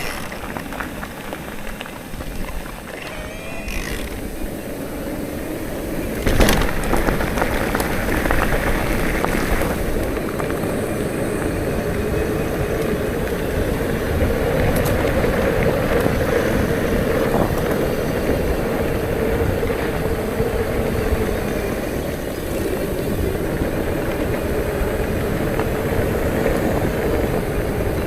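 Wind rushing over the microphone and tyre noise from a bicycle riding along, with a steady hum building through the second half and a sharp knock about six seconds in.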